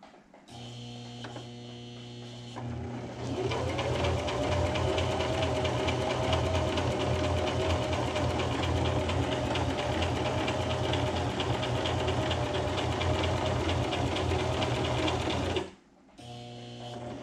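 Electric sewing machine stitching a zigzag stitch: a low hum at first, speeding up about three seconds in, then running fast and steady for about twelve seconds before stopping abruptly near the end.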